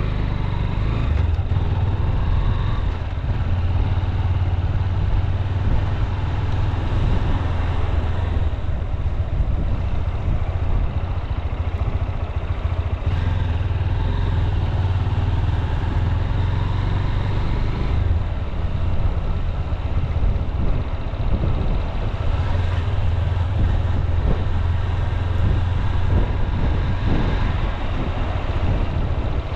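Honda CB200X single-cylinder engine running steadily as the motorcycle cruises, heard from on the bike. The engine note eases off about two-thirds of the way through and picks up again a few seconds later.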